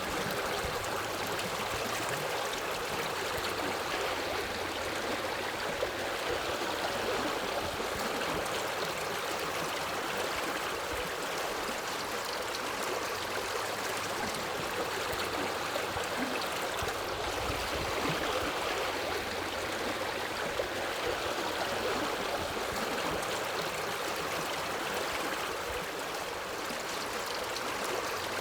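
A forest river flowing over rocks: a steady rush of water with a light gurgle and no letup.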